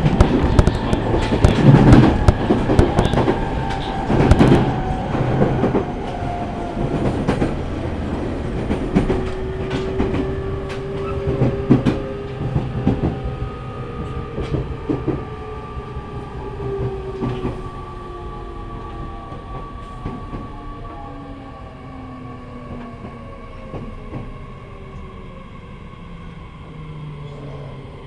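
E501 series electric train heard from inside the car, slowing for a station stop: the traction motor whine falls steadily in pitch as it brakes. Wheel clatter over rail joints is loud at first and thins out as the train slows.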